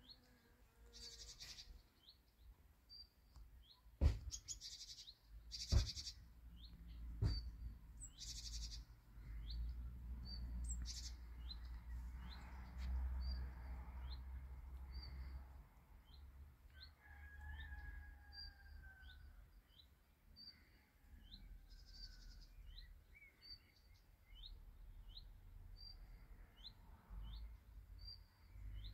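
Small birds chirping: short high chirps repeating about once a second, with a few louder calls in the first several seconds. A few sharp clicks sound around the middle of the first quarter.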